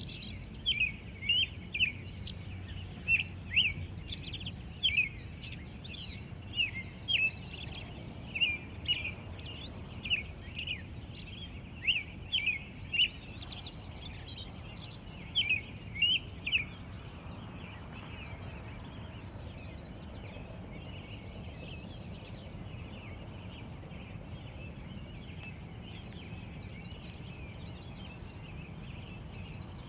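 Wild birds in a morning chorus. Short, sharp chirps repeat quickly, often in pairs, for about the first half, then give way to fainter, scattered calls over a steady high-pitched hum.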